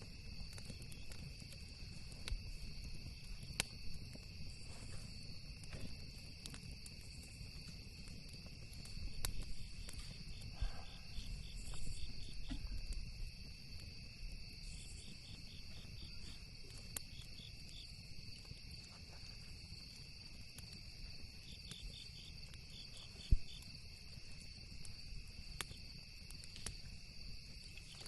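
Campfire crackling with scattered sharp pops, one louder pop near the end, over a steady chorus of insects trilling and a low rumble.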